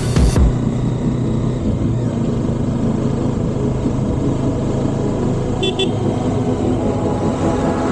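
Road traffic sound: a vehicle engine running steadily, with a short double horn beep about six seconds in.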